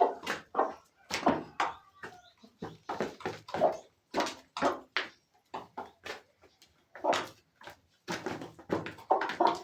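Chickens giving short, irregular clucks and squawks, two or three a second and busier near the end: hungry birds excited at feeding time.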